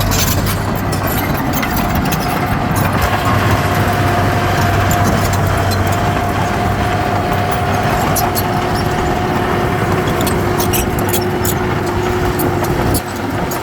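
Heavy diesel earthmoving machinery running steadily, with a steady whine over the engine and scattered sharp clicks. The level drops briefly about 13 seconds in.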